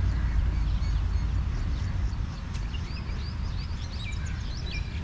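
Small birds chirping in quick, short notes, thickening from about two seconds in, over a steady low rumble.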